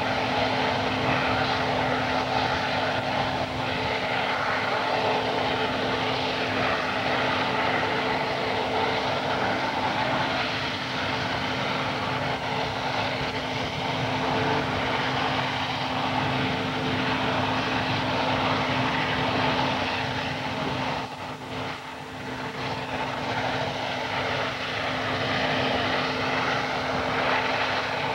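Gas turbine engines of a modified pulling tractor running steadily with a constant whine, dipping briefly about three quarters of the way through.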